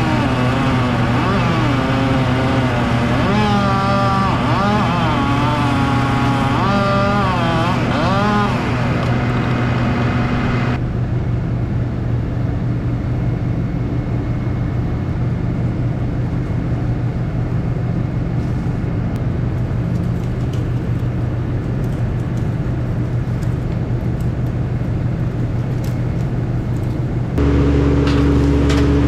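Heavy machinery engine running steadily with a deep hum, a wavering whine rising and falling over it for the first several seconds. The sound changes abruptly about eleven seconds in, and again near the end, where a deeper, louder hum takes over.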